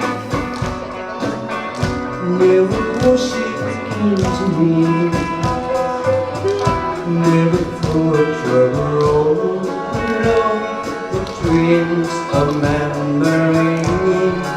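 Live band playing a 1960s-style pop song: a melodic lead over guitar and a steady drum beat, with no sung words.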